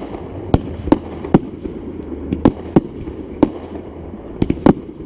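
Fireworks going off in a quick, irregular run of sharp bangs, about ten in five seconds, with a couple of near-double cracks about a second from the end, over a steady rumble from the show.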